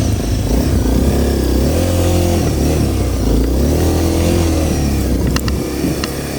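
Honda CRF250L's single-cylinder four-stroke engine running under throttle, its pitch rising and falling twice.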